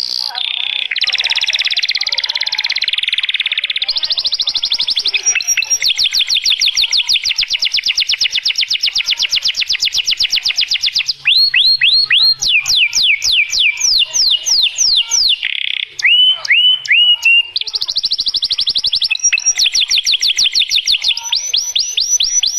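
A bird chirping in fast, evenly repeated high trills, broken about halfway by slower falling whistled notes.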